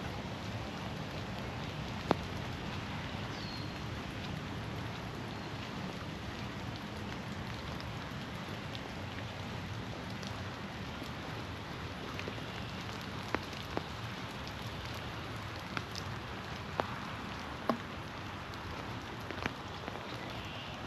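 Steady rain falling in a forest, with a handful of sharp, brief taps of nearby drops, most of them in the second half.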